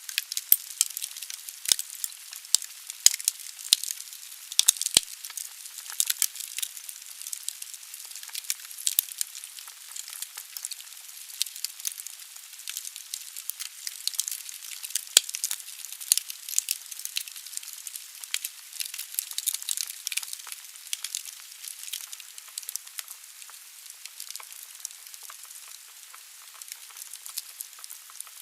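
Wood burning in a fireplace, crackling with frequent sharp pops over a steady hiss.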